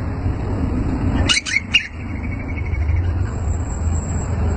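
Greater green leafbird (cucak ijo) giving a short burst of sharp, quick chirps about a second and a half in, over a steady low hum.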